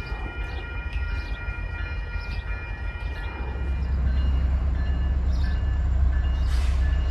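A train passing, its low rumble growing louder about halfway through.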